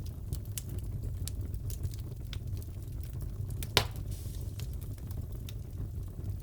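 Wood fire crackling in a fireplace: a steady low rumble with scattered small crackles and one loud pop a little past halfway, followed by a brief hiss.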